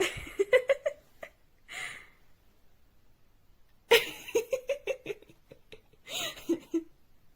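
A person laughing in two bursts of quick, pitched 'ha-ha' pulses, with breathy gasps between them.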